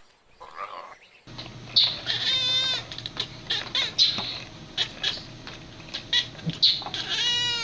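An animal calling twice, each call about half a second long with a quavering, wavering pitch, over scattered clicks and a steady hum.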